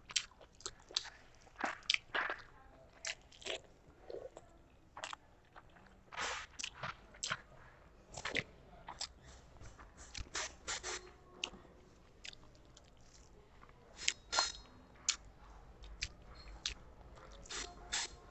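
Close-miked eating sounds of a person chewing a mouthful of rice and curry: irregular wet mouth clicks and smacks, with fingers mixing rice on a banana leaf.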